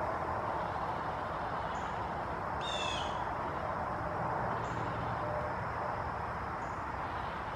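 Outdoor field ambience: a steady hiss with faint short high chirps every couple of seconds, and a single short bird call about three seconds in.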